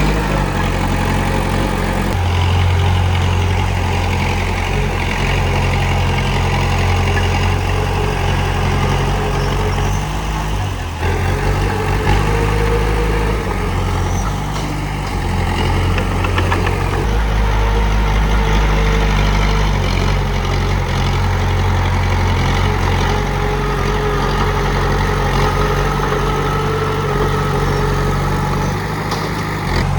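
Komatsu D31P crawler bulldozer's diesel engine running steadily, its note shifting a few times.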